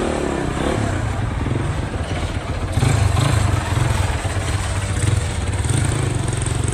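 An engine running steadily with a low hum, getting a little louder about three seconds in.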